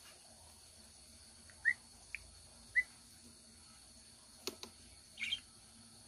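A bird giving three short, rising chirps, then a couple of faint clicks and a brief rasp near the end.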